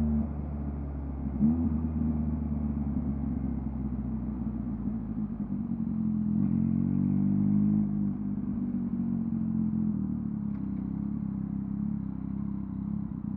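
2023 Yamaha MT-09's inline-three engine through a LeoVince LV Race exhaust, running at low revs. There is a short throttle blip about a second and a half in, and a gentle rise in revs around six seconds in that drops back after two seconds.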